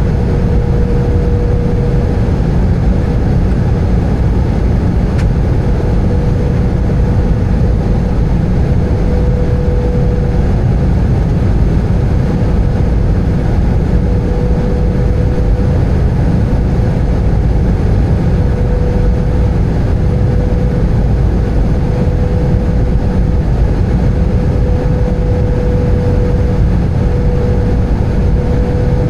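Steady cabin noise inside an Airbus A320: a constant low rumble of engines and airflow, with a faint higher hum that fades in and out.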